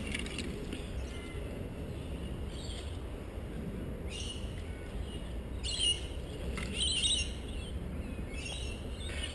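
Wild birds calling outdoors: about five short, high calls spaced a second or more apart, over a steady low rumble.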